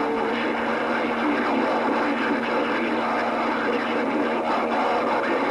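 CB radio receiver hissing with static between transmissions, a steady rush of noise with a faint low hum-like tone under it.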